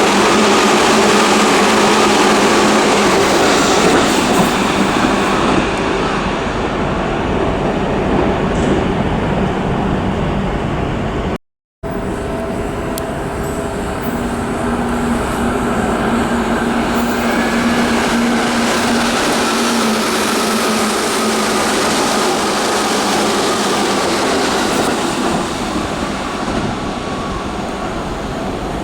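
Seibu Railway electric trains passing through a station without stopping, with loud running noise of wheels on rail and a steady motor hum and whine. The sound drops out briefly about eleven seconds in, and a second train pass follows.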